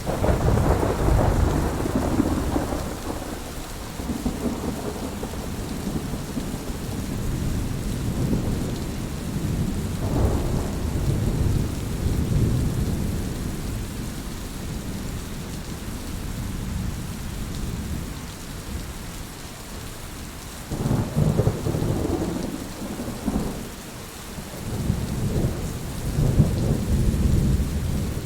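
Heavy rain falling steadily, with low rolls of thunder swelling up near the start, again around ten seconds in, and twice more in the last third.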